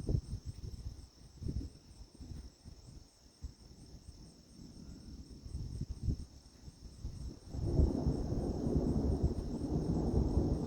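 Thunder rumbling in, starting about three quarters of the way through and getting louder, over insects trilling steadily in the background.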